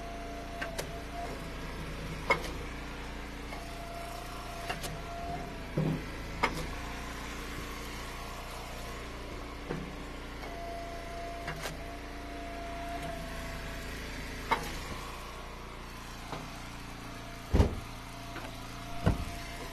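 Eastonmade Ultra hydraulic wood splitter running steadily, its whine rising three times for a second or two as it works. Sharp cracks and knocks of ash rounds splitting and pieces dropping are scattered through, with the loudest thuds near the end.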